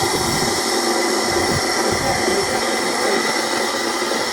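Southern S15 4-6-0 steam locomotive hissing steam steadily, with a few low thuds in the first couple of seconds.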